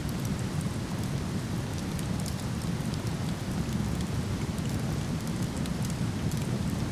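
Steady low rush of a nearby waterfall, with a wood fire crackling over it in small, irregular snaps and pops.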